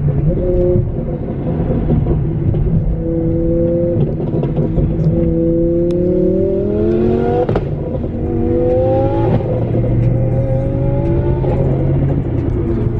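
A car engine accelerating hard through the gears, its pitch climbing and then dropping at a shift about halfway through and again a couple of seconds later, over a steady low rumble.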